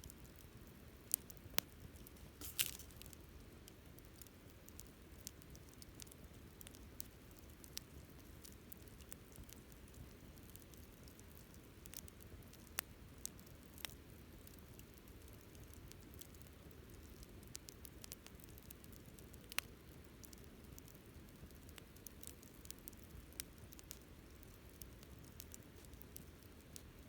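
Wood campfire crackling quietly: irregular sharp pops and ticks as the burning wood snaps, with a louder pop about two and a half seconds in, over a faint low rumble.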